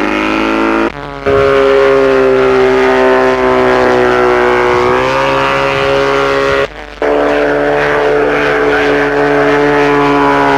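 Light single-seat autogyro's engine and propeller droning steadily overhead, its pitch drifting slightly. The sound cuts out briefly twice, about a second in and again near seven seconds.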